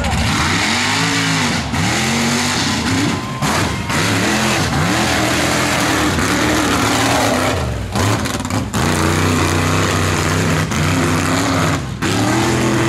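Mega mud truck engine revving hard, its pitch swelling up and falling back again and again, then held high and fairly steady over the later seconds with two brief drops.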